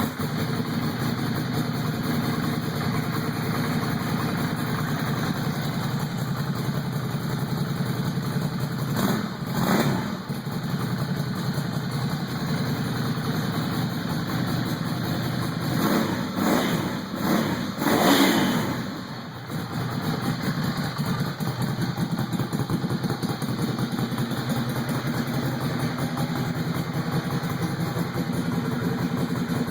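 Ducati Hypermotard 796's air-cooled L-twin engine idling through a cored exhaust with the baffles removed. There is one throttle blip about a third of the way in, and a quick series of three or four revs a little past halfway, the last the highest. It then settles back to a steady idle.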